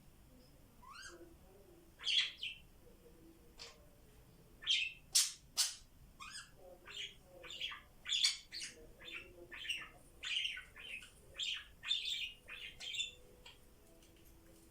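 Pet budgies chirping and chattering in a quick series of short, high calls, with a few louder, sharper calls partway through. The calls die away shortly before the end.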